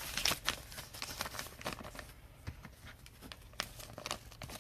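Sports trading cards being handled: a scatter of soft clicks, rustles and crinkles as cards and their packaging are slid and moved.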